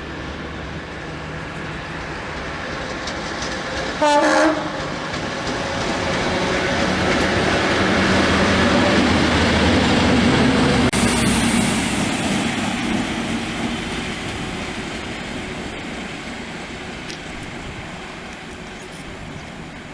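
A train passing, with a short horn blast about four seconds in; the rumble of the train builds to a peak near the middle and then fades as it goes away.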